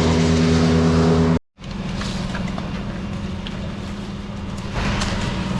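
An engine running steadily at a constant speed. About a second and a half in, the sound cuts out abruptly and comes back as a quieter, lower engine hum.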